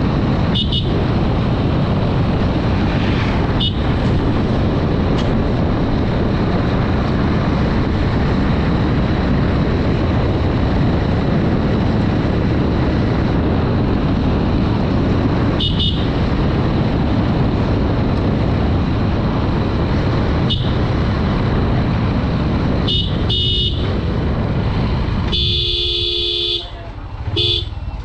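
Steady wind rush and engine noise of a Honda Dream 110 single-cylinder motorcycle on the move. Short horn toots come about half a dozen times, and a longer honk sounds near the end.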